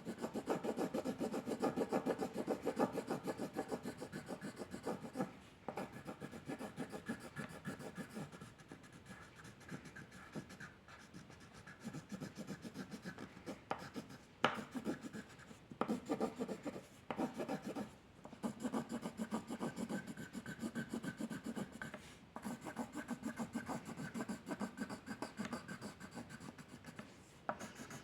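A drawing tool scribbling on paper in fast back-and-forth strokes, as in shading or colouring in. The strokes come in bursts with short pauses between them.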